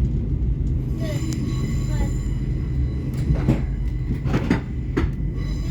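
Steady low rumble of a GWR Class 800 train with a few sharp clunks a little past the middle, and faint voices.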